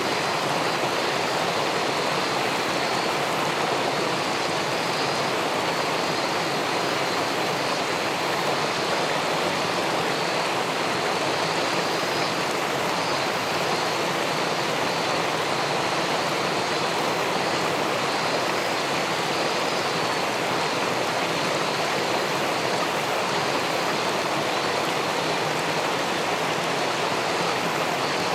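River water rushing steadily below a weir, an even, unbroken flow.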